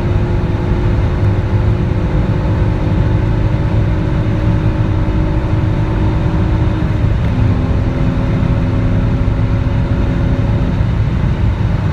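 Peugeot 406 3.0 V6 with an open air filter driven hard at high speed, its engine note held steady over a heavy low rumble of road and wind noise. The engine tone steps down in pitch about seven seconds in.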